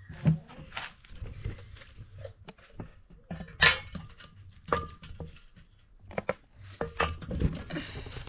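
Scattered clinks and knocks of dishes and utensils, the loudest about three and a half seconds in.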